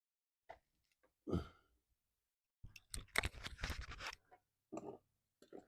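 Tools and materials being handled and put away: a few separate knocks, then about a second and a half of rapid rattling and clicking, then more knocks near the end.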